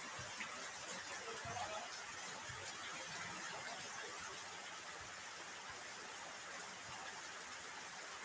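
Steady rain falling, a soft even hiss.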